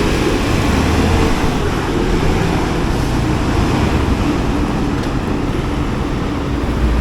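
Wind rushing over the microphone while riding a motorcycle, with the engine and road noise running steadily underneath.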